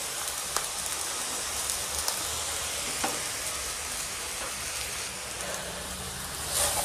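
Fried rice sizzling in a large steel pan over the flame, just after the sauces are poured on, with a few faint clicks. Near the end a slotted metal spatula starts tossing and scraping the rice, and the sound grows louder.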